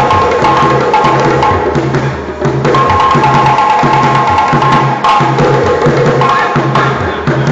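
Live African hand drumming: several drums played together, dense rapid strokes over a low drum beat that repeats about twice a second.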